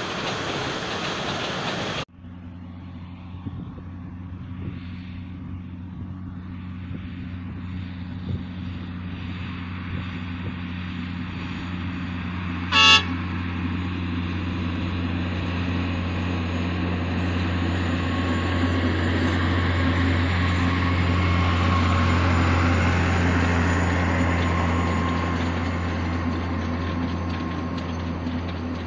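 Sugar cane train's diesel locomotive approaching and passing with a steady engine drone that grows louder, peaks, then eases as the loaded cane wagons roll by. One short, loud horn toot comes about 13 seconds in. In the first two seconds a steady rushing noise cuts off abruptly.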